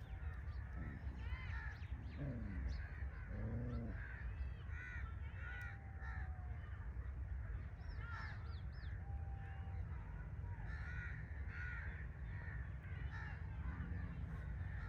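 Birds calling: many short, repeated calls from several birds, over a steady low rumble.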